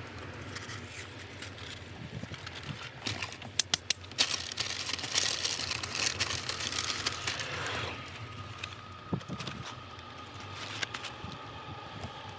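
Close-up chewing of crispy curly fries: crunching and mouth clicks, with a few sharp clicks about three to four seconds in and a longer stretch of crinkly crunching in the middle.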